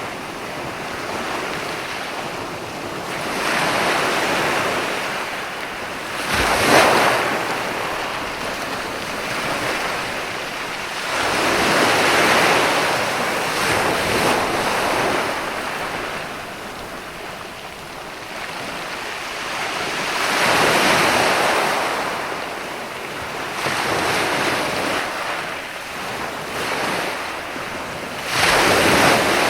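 Ocean waves breaking on a sandy beach, the surf swelling and fading every few seconds. Two sharper, louder breaks come about six seconds in and near the end.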